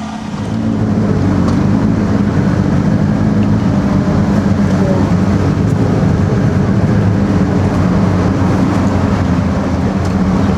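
Boat engine running with a steady, deep rumble that grows louder about half a second in.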